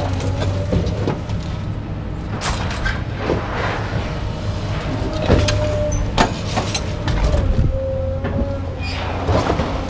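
Metal being handled and worked: scattered sharp knocks and clanks with a few short squeaks, over a steady low hum.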